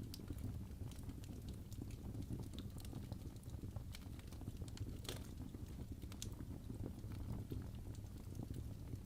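Crackling fireplace ambience: a steady low rumble of burning with scattered small pops and snaps, one louder pop about five seconds in.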